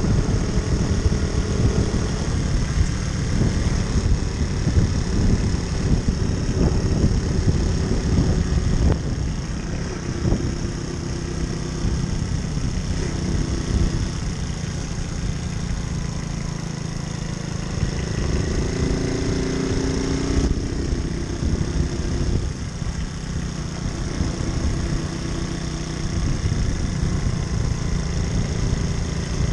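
Moped engine running while riding, its pitch rising and falling, under a heavy continuous low rumble.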